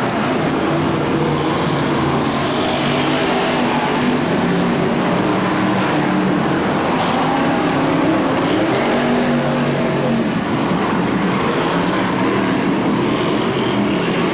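Several BriscaF1 stock cars' Chevrolet V8 engines running together, loud and steady, their pitches wavering up and down as the cars lap the oval.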